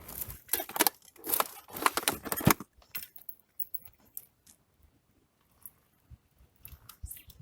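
Close handling noise: rustling and crinkling for the first couple of seconds, then scattered small clicks, as fishing line tangled on a spinning reel after a careless cast is worked free by hand.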